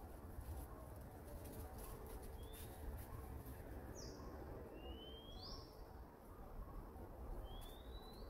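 Birds chirping faintly: about five short, high whistled calls, most rising in pitch and one falling, spaced a second or more apart, over a steady low background rumble.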